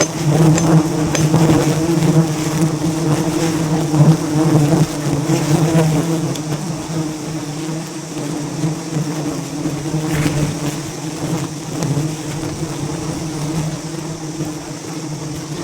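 A swarm of wild honeybees buzzing: a loud, steady, low hum of many wingbeats that eases off a little about halfway through.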